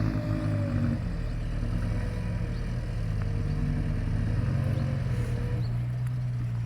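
Diesel truck engine running hard under load on a steep rocky climb. Its pitch drops a little about half a second in, then holds steady.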